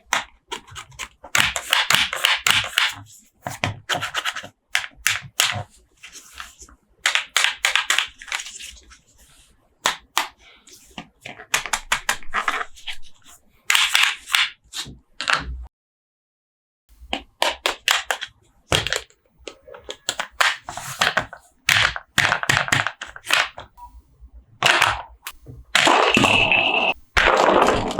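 Toy packaging being handled and opened: repeated bursts of crinkling and scraping with sharp clicks, broken by a brief pause a little past halfway.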